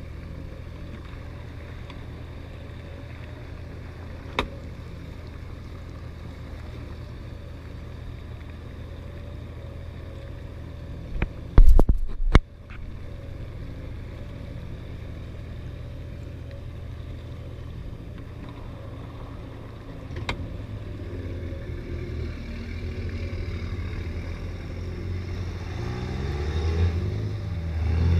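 The exhaust of a 2016 Vauxhall VXR idling with a steady low drone. A single sharp tick comes about four seconds in, and a short cluster of loud knocks comes about twelve seconds in. Over the last several seconds the engine note grows louder and its pitch shifts up and down.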